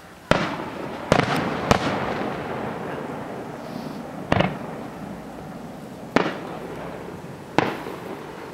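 Aerial firework shells bursting: six sharp bangs at uneven intervals, three close together in the first two seconds, each followed by a long fading echo.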